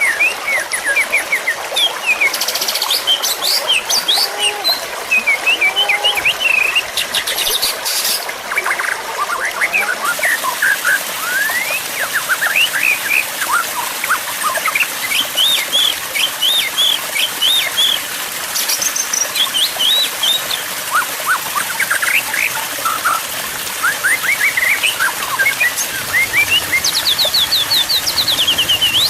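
Songbirds singing without pause: a dense mix of short whistles, chirps and quick rising notes over a steady hiss, with a fast run of rising notes near the end.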